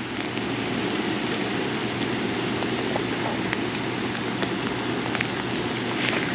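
Steady rain falling, with scattered single drops ticking close to the microphone.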